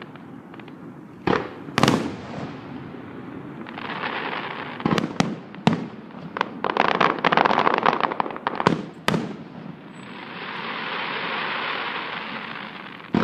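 Aerial fireworks display: shells bursting with sharp bangs, several in quick pairs, between them stretches of dense crackling. Near the end a long crackling hiss swells and fades away.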